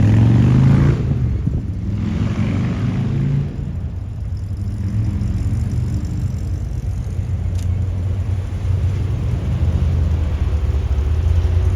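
Car engine running at low revs with a deep, steady rumble, loudest in the first second and then settling.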